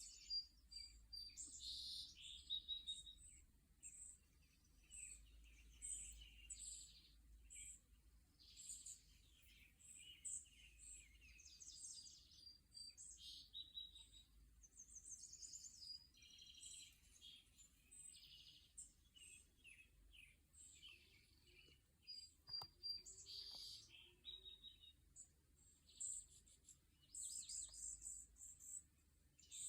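Several small songbirds chirping and singing at once, faint, with short high calls and trills overlapping throughout.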